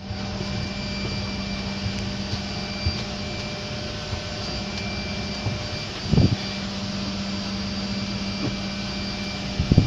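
Airliner cabin noise: a steady engine drone and air rush with a constant low hum. A short low bump about six seconds in.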